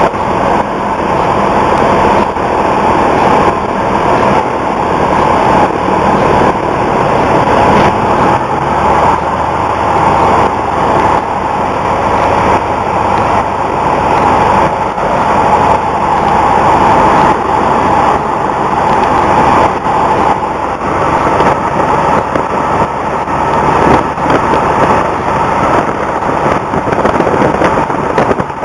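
Cessna 172's engine and propeller heard from inside the cabin: a loud, steady drone.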